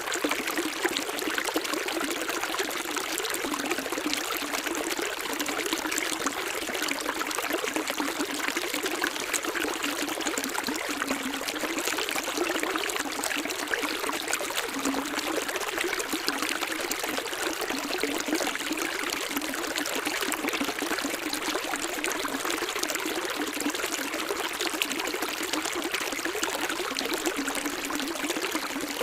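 Running water, a small stream trickling and splashing steadily.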